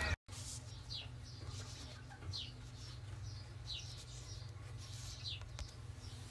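A small bird chirping: short, high, falling calls, one about every second or so, over a faint low steady hum.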